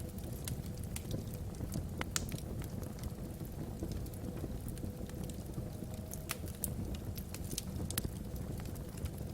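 Wood logs burning in a fireplace: irregular sharp crackles and pops over a low, steady rumble.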